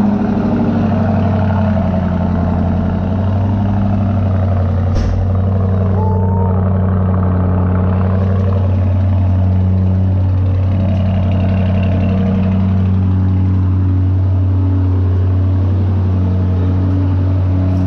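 Lamborghini Urus's twin-turbocharged V8 idling steadily with a deep, even note, shortly after a cold start, with vapour coming from its exhaust.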